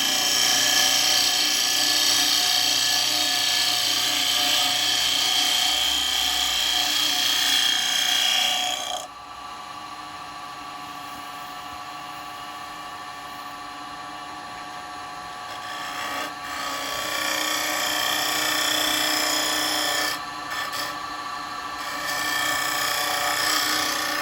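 Bowl gouge cutting a spinning wooden bowl blank on a wood lathe: a loud rasping hiss of the cut over the lathe's steady hum. The cut stops about nine seconds in, leaving the lathe running, and comes back in the second half with a short break.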